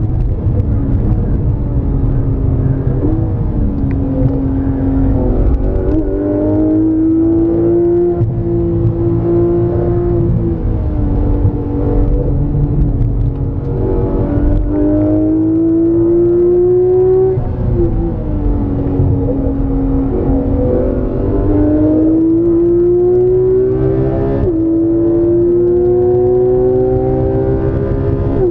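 Porsche 991 GT3 RS's naturally aspirated flat-six heard from inside the cabin at full throttle. The engine note climbs steadily and drops back at each quick PDK upshift, several times over, and dips in a couple of places as the car slows for corners, over steady tyre and road rumble.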